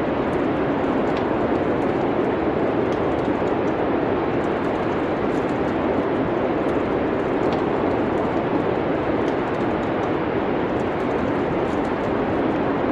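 Steady low rushing ambience of wind, with a few faint, sparse crackles from a fireplace fire.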